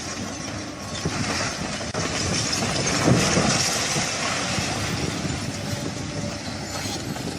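Heavy machinery running with a steady mechanical din, swelling to its loudest about three seconds in.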